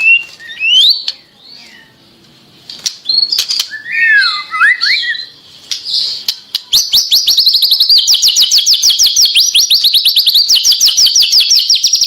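White-rumped shama (murai batu) singing: varied whistled phrases and sharp clicks, then, about halfway through, a long fast trill of rapidly repeated rising notes.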